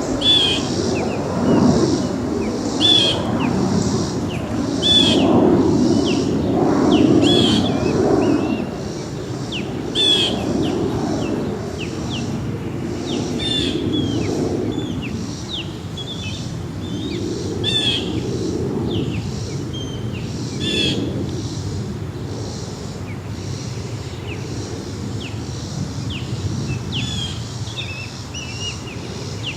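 Departing airliner after takeoff: a low rumble, loudest over the first eight seconds or so and then slowly fading. A small bird chirps repeatedly over it in short, high, downward-sweeping notes.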